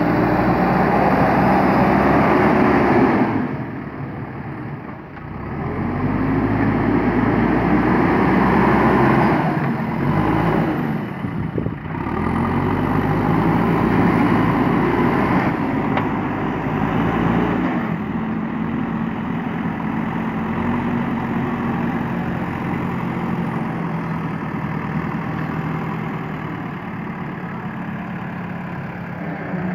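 Diesel engine of a JCB backhoe loader revving up and down under hydraulic load as it works. It surges three times, then settles into steadier, lower running for the last third.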